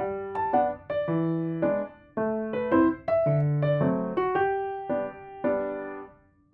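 Background music: a gentle melody of piano or electric piano notes, each note struck and fading away, the phrase ending and dying out near the end.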